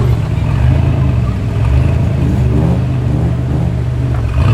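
Car engine running with a deep, steady rumble as a car rolls past, its pitch rising briefly about two to three seconds in.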